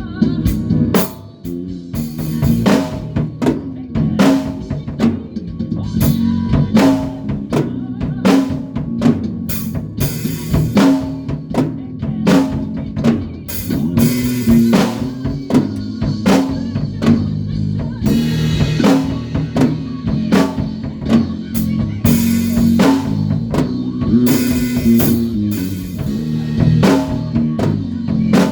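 Live band rehearsal: a drum kit plays a busy beat of kick, snare and cymbal hits over a bass guitar line that moves between low notes.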